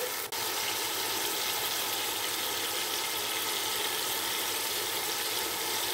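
Diced tomatoes, onions and garlic sizzling steadily in hot oil in a large steel pot, with a brief break about a third of a second in.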